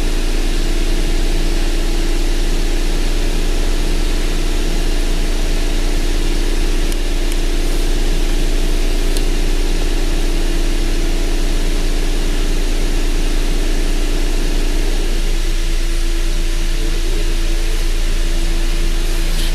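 Engine idling steadily, with a steady hum; its tone shifts slightly about fifteen seconds in.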